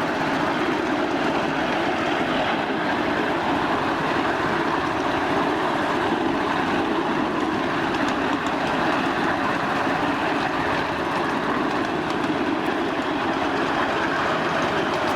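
A 1/8-scale ride-on miniature train rolling along its track, heard from aboard as a steady running noise of wheels on rail, with a few faint clicks near the end.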